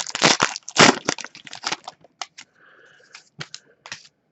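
A trading-card pack wrapper being torn open and crinkled: a dense run of crackles for about two seconds, then scattered light ticks and rustles as the cards are handled.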